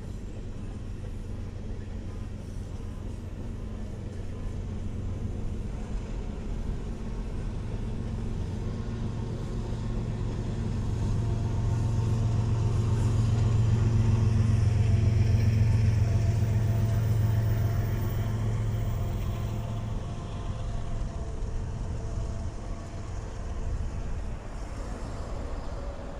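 Low, steady drone of a heavy engine passing by. It swells to its loudest about halfway through and then fades.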